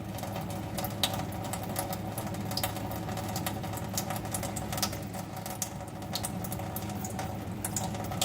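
Small irregular splashes and drips of water from a baby green-cheeked conure bathing, many short light ticks over a steady low hum.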